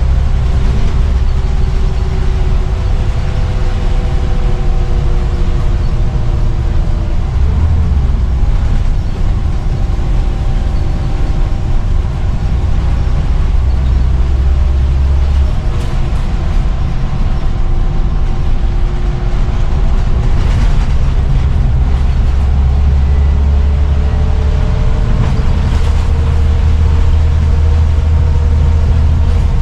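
Scania CN94UB single-deck bus under way, its diesel engine giving a deep steady drone, with several whining tones from engine and driveline that slowly rise and fall as road speed changes. A few brief knocks or rattles come through along the way.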